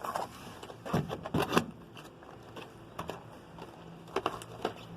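Scattered light clicks and knocks of small die-cast toy monster trucks being handled and set down, with a cluster about a second in and a few more near the end.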